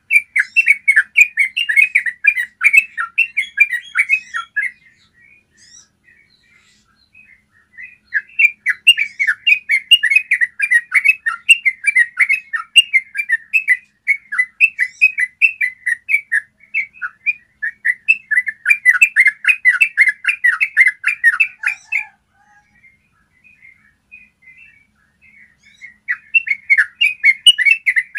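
Yellow-vented bulbul singing its long rolling song, a rapid run of chattering, bubbling notes, in three bouts separated by pauses of a few seconds.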